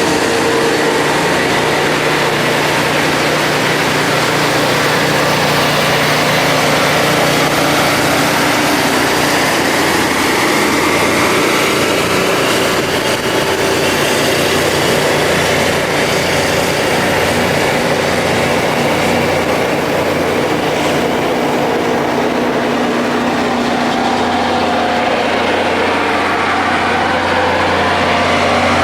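Rail grinding machine working along the track: a loud, steady grinding of abrasive wheels on the railhead over the hum of its diesel engine.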